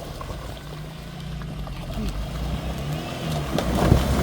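Off-road vehicle's engine running under load, with a steady hum at first that turns louder and rougher from about three and a half seconds in.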